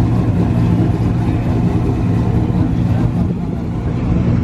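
A car engine running steadily at idle, with low background voices.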